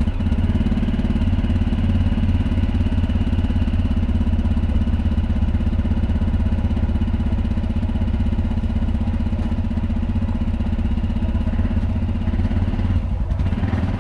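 ATV engine running steadily at low speed, with a brief drop about a second before the end.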